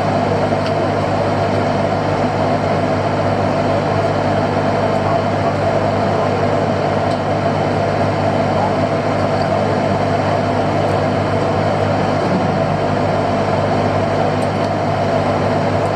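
Fishing boat's engine running steadily with the boat under way, a constant drone that does not change.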